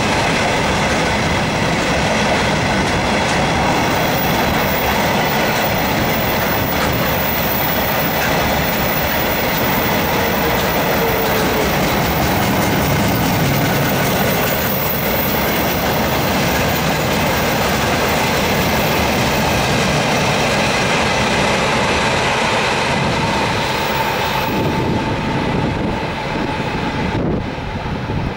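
Freight train of open gondola wagons rolling past, steel wheels clattering over the rail joints with a thin steady squeal from the wheels on the curve. It eases slightly in the last few seconds.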